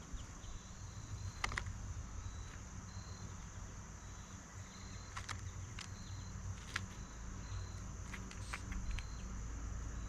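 Insects chirring steadily, with short repeated high chirps and a few sharp taps scattered through.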